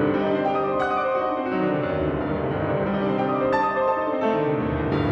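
Background piano music, a keyboard melody over sustained chords.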